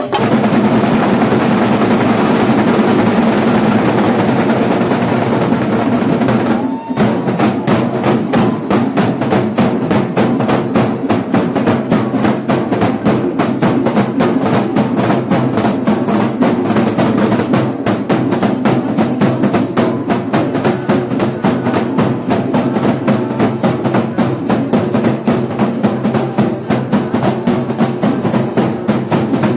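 A Kerala percussion ensemble, chenda drums with cymbals, playing a fast, dense run of stick strokes. The playing breaks off briefly about seven seconds in and carries straight on.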